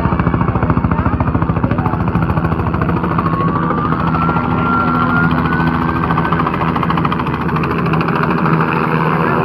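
Helicopter running close by: the rapid chop of its rotor blades over a steady engine drone, with a thin high whine rising slowly through the middle.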